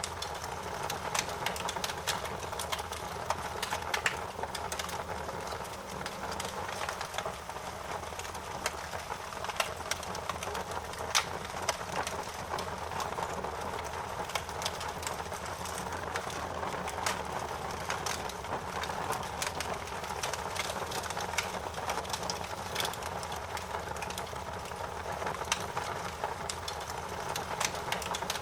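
Fire crackling steadily, with many sharp irregular pops and snaps over a constant hiss.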